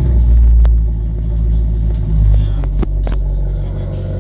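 Maserati GranTurismo S's V8 running with a deep, steady rumble just after startup, the engine note swelling twice.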